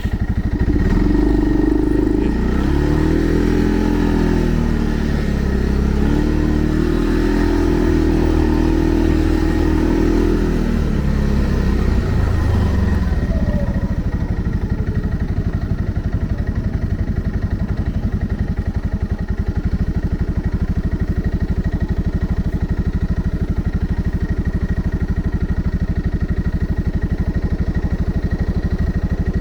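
Segway Snarler 570 ATV engine running, its pitch rising and falling for about the first twelve seconds, then settling into a steady, even note.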